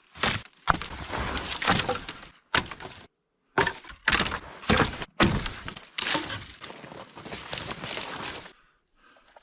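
Dry branches or sticks being snapped and broken in a series of loud cracks with short pauses, several cutting off abruptly.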